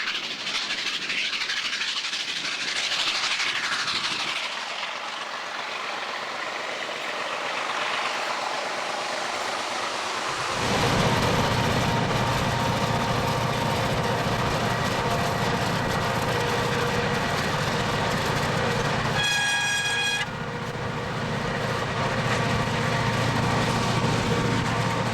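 Train running along the track with a steady rolling rumble, then, after an abrupt change, a locomotive's engine running with a steady low hum. One horn blast of about a second sounds a few seconds before the end.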